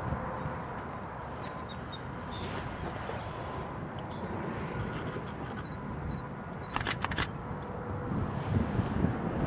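Wind buffeting the microphone over the faint rumble of a distant Amtrak passenger train approaching on the mainline. A brief cluster of sharp clicks comes about seven seconds in.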